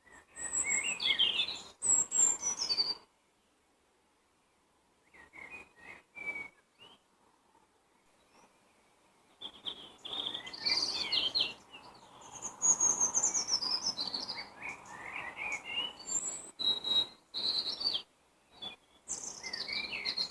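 Wild songbirds singing in spring, in separate bouts of quick, high chirps and sliding phrases with short silent gaps between them: one bout at the start, a few brief chirps, a long stretch of song in the middle and another burst near the end.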